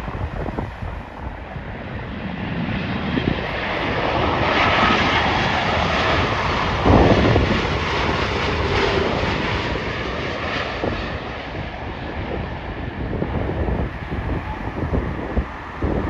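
Jet airliner passing on its landing approach: the engine noise swells to a peak about five seconds in and then fades, with a whine that falls in pitch as it goes by. Gusty wind buffets the microphone.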